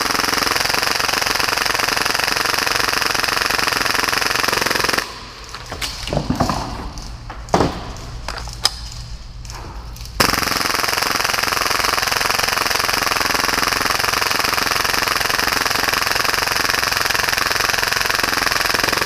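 Full-auto Tokyo Marui Hi-Capa airsoft pistol firing at 30 rounds per second in long continuous bursts: one burst runs to about five seconds in, then a pause with a few scattered knocks, and a second burst starts about ten seconds in and keeps going.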